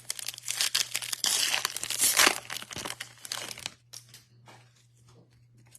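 Foil trading-card pack wrapper being torn open and crinkled, loudest about two seconds in, dying down to a few faint ticks and rustles after about four seconds.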